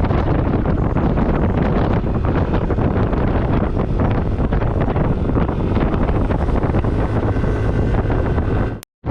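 Heavy wind buffeting the microphone of a moving motor scooter, with road and engine noise beneath it. The sound cuts out for a moment near the end.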